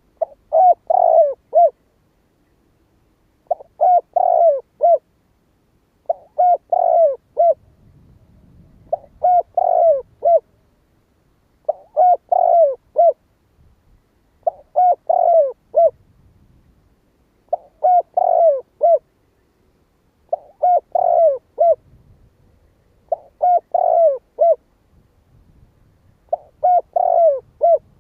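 Spotted dove cooing: a short phrase of three or four notes, repeated about every two and a half seconds. It is a lure call for drawing in wild spotted doves.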